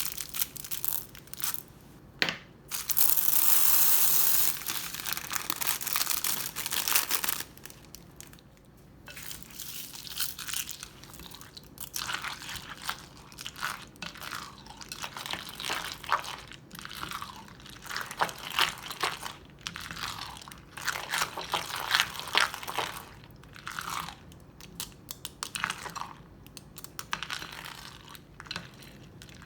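Crunchy slime packed with beads and fish bowl beads being squeezed and kneaded, giving dense, irregular crackling and crunching clicks. About three seconds in there is a loud steady rush of noise lasting a second or two.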